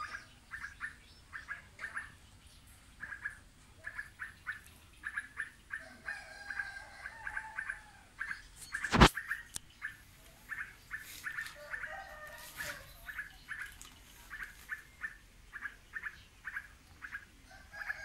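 A small parent songbird calling at its nest: a fast, uneven string of short chattering notes, with one sharp knock about halfway through.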